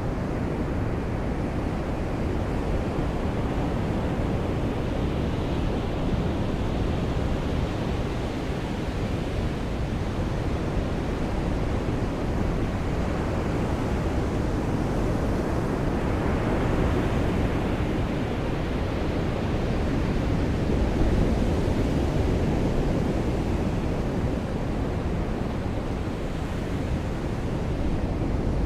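Rain and surf at a beach: a steady low rush of waves that swells and eases slowly every several seconds.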